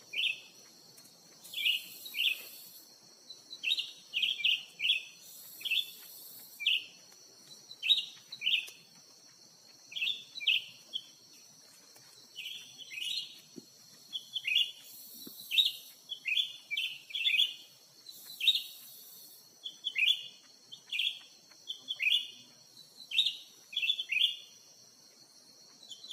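Cucak ranting birds calling: short, sharp chirps that slide downward, given in quick clusters of two to four over and over, over a steady high-pitched hum.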